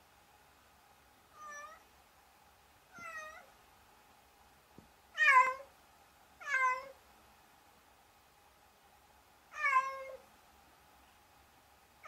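Domestic cat meowing five times, each meow short and falling in pitch at the end; the first two are softer. A faint steady hum runs underneath.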